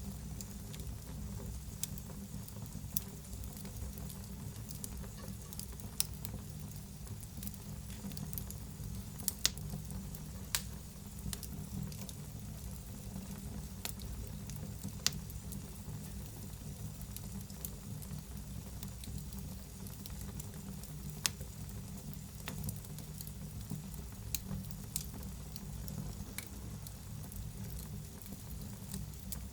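Wood fire in a fireplace crackling and hissing, with a steady low rumble of the flames and scattered sharp pops, a few of them louder.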